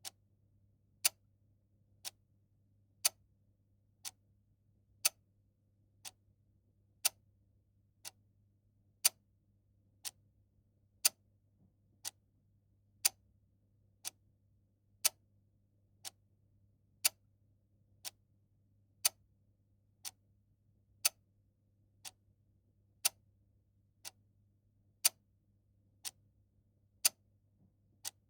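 Clock ticking steadily at about one tick a second, each tick louder and softer in turn like a tick-tock, over a very faint low hum.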